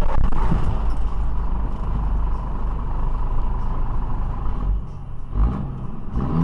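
A road vehicle driving, with a steady low rumble of engine and tyres. The rumble eases about five seconds in, and a short rising engine note follows near the end.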